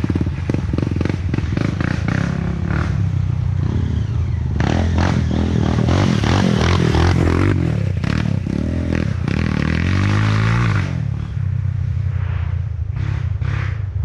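Off-road trail motorcycle engines running and revving, their pitch rising and falling, with clattering and scraping.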